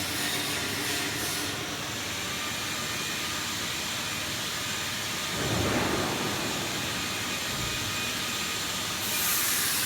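PVC flexible duct-forming machine running: a steady hissing machine noise, with a brief swell about five and a half seconds in.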